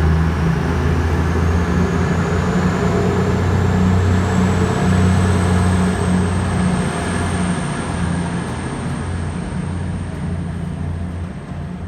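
Class 222 Meridian diesel-electric multiple unit pulling away. Its underfloor diesel engines run with a deep drone, and a high whine rises in pitch as the train gathers speed. The sound fades slightly toward the end.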